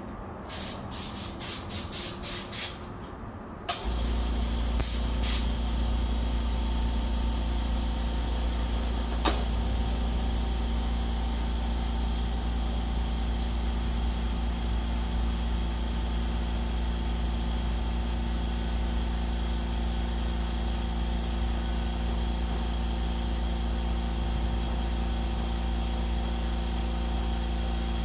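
A run of short hissing spray bursts, then a steady low engine hum that starts about four seconds in and runs on evenly, with two more brief spray bursts soon after.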